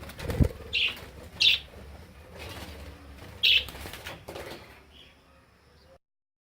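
Budgerigars fluttering and flapping their wings in flight, with three short loud chirps about a second, a second and a half, and three and a half seconds in. A low thump comes near the start.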